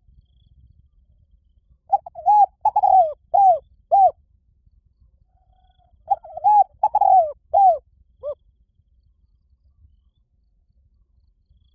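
Spotted dove cooing: two phrases of about five short coos each, the first about two seconds in and the second about six seconds in, each lasting around two seconds.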